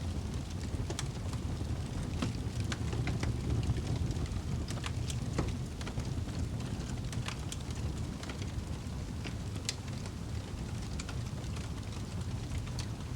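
Wood fire burning in a fireplace: a steady low rush of flame with irregular sharp crackles and pops scattered throughout.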